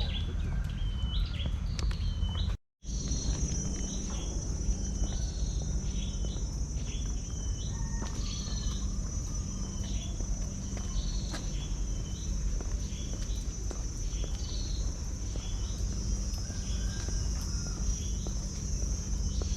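A bird repeats a short, hooked whistled call about once a second over a steady high insect drone that comes in after a brief break about three seconds in, with a low rumble underneath.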